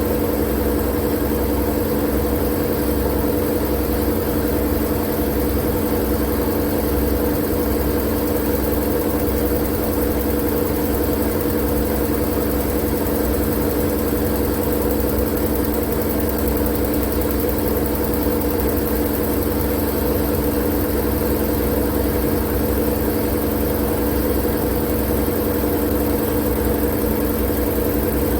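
Steady, unchanging noise used for sleep, with a constant low hum and a rumble under it, like a machine running.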